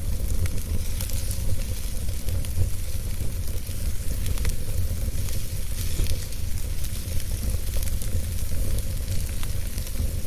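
Wood fire burning in a fireplace: a steady hiss and low rumble with small crackles and pops scattered throughout.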